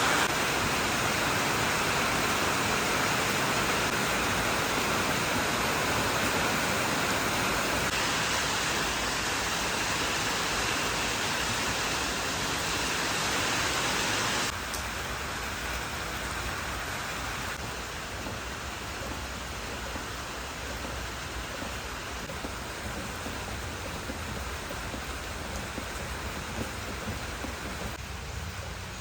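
Heavy rain falling steadily; about halfway through the sound drops abruptly to a quieter, lighter level.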